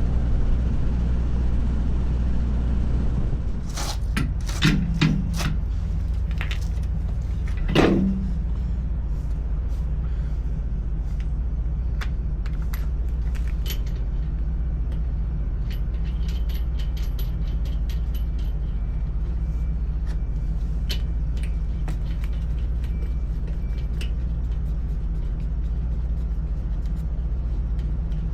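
Steady low hum of an idling engine, with a cluster of sharp metal clinks and knocks a few seconds in and scattered lighter clicks after.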